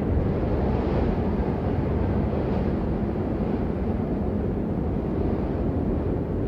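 Steady rain: a dense, even rushing noise that is deep and muffled, with little treble and no single drops standing out.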